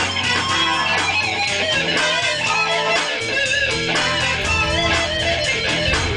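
Guitar-led music with a steady beat and a bass line.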